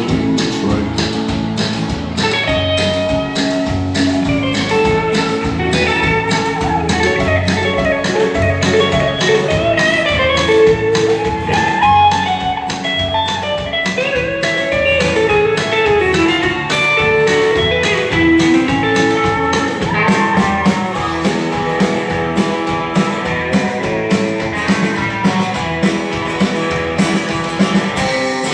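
Country band playing an instrumental break with no vocals: a guitar picks a melodic lead over a steady drum beat and bass.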